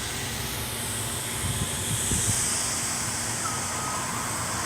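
Street traffic noise from trucks moving along the boulevard, with a hiss that builds over the middle. About three and a half seconds in, a truck's backup beeper begins: one steady beep.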